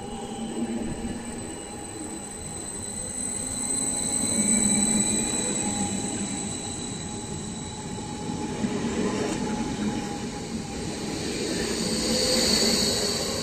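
Stadler KISS double-deck electric multiple unit running past, its wheels rumbling on the rails under a steady high electric whine. It gets louder about four seconds in and again near the end.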